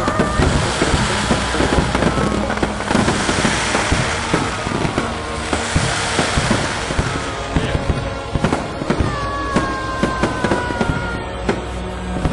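Aerial fireworks display going off in a dense run of crackles and sharp bangs, over a steady hiss of burning stars, with music playing along.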